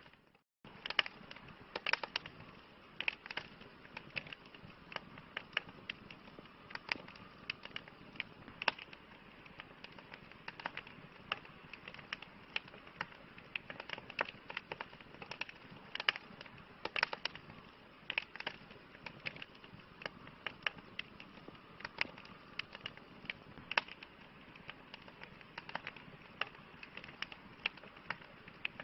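Wood fire crackling: a steady soft hiss with frequent irregular snaps and pops, some louder than others. The sound drops out briefly just after the start.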